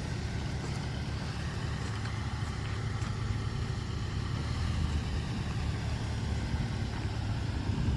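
2009 Chevrolet Colorado pickup's engine idling steadily.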